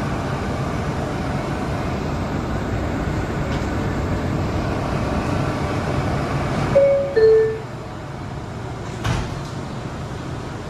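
Steady hum of an R179 subway train standing at a station, then the two-note falling door-closing chime about seven seconds in, and a short thump about two seconds later.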